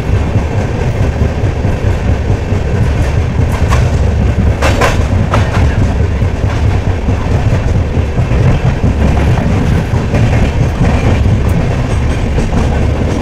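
Express passenger train running at low speed, heard from aboard a coach. The wheels on the rails make a steady heavy rumble with clickety-clack over the rail joints, and a few sharper clanks come about four to five seconds in.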